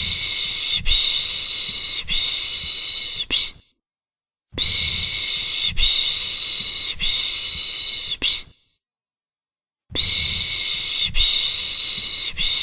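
A person shushing 'pış pış' to soothe a baby: long hissing 'shh' sounds, about three to a breath, in groups of about four seconds with about a second of silence between groups.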